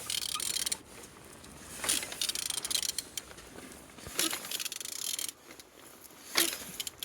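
Opel A20DTH 2.0 diesel engine being turned over by hand at the crankshaft: three bouts of rasping, clicking mechanical noise, each starting with a sharp click, about every two seconds. The engine turns freely.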